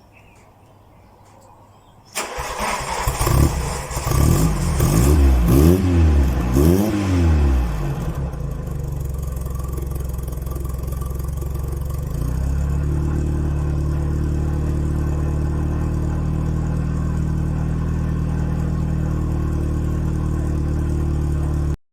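Mk1 VW Golf engine cold-starting about two seconds in, blipped through a few quick revs, then settling to a steady idle that rises a little and holds, a cold-engine fast idle.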